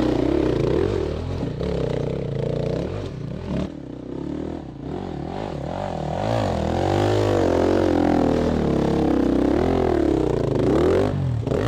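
Dirt bike engine revving up and down repeatedly, its pitch rising and falling in quick swells, with a brief lull about four seconds in.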